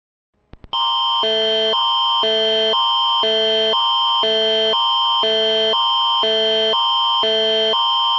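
Canadian Alert Ready emergency attention signal: a loud electronic alert tone that switches between a higher and a lower chord every half second over a constant high pitch, starting just under a second in after two faint clicks. It announces an emergency alert message.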